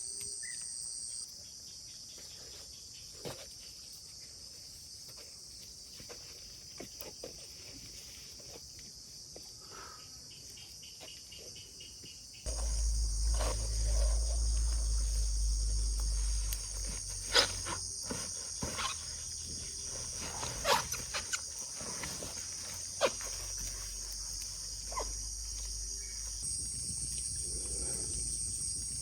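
Steady chorus of crickets and other insects, with scattered sharp clicks and knocks. A low rumble comes in about twelve seconds in.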